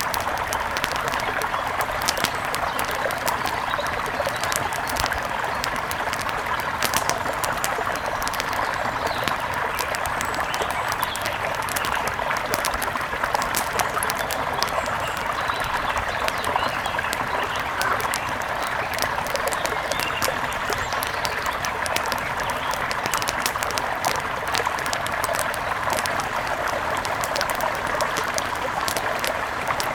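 Steady rush of a mountain river flowing, with many small sharp ticks and pops scattered through it.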